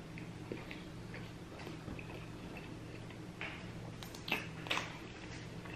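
Close-up chewing of a cheeseburger: soft, wet mouth clicks and smacks, with a few louder smacks from about three and a half seconds in.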